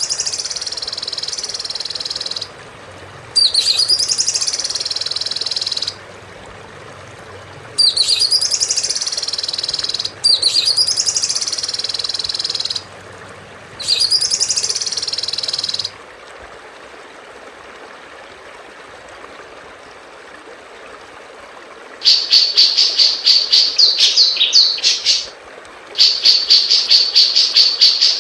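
Recorded songbird song used as masteran, a training track for caged songbirds. It has five repeated phrases, each a quick rising whistle into a high, steady buzzing trill about two and a half seconds long. After a pause of several seconds, a different rapid chattering trill of fast repeated high notes starts and runs twice.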